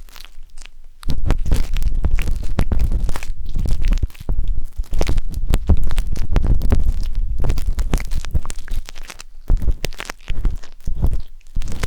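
A wooden skewer scraping and rubbing inside the silicone ear of a 3Dio binaural microphone: a dense run of close scratches and clicks with a heavy low rumble. It starts about a second in and pauses briefly near the end.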